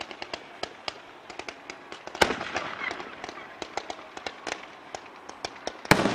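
Fireworks display: many small sharp pops and crackles throughout, with two loud bangs of aerial shells bursting, about two seconds in and near the end, each echoing afterwards.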